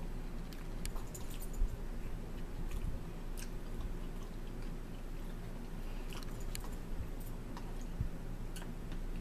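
People chewing food close to the microphone, with scattered light clicks and taps over a steady low hum.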